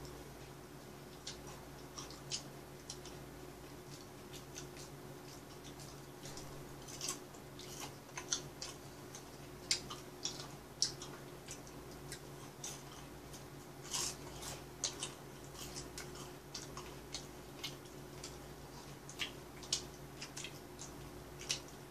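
Close chewing of chicken gizzards: irregular crisp crackles and clicks, a few each second, over a steady low hum.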